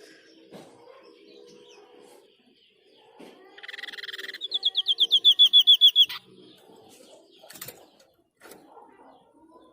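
White-breasted babbler (the 'sniper' bird) giving its rapid 'tembakan' (shot) call once, about halfway through. It opens with a short buzzy note, runs into a fast series of about ten high, down-slurred whistles a second, and cuts off abruptly.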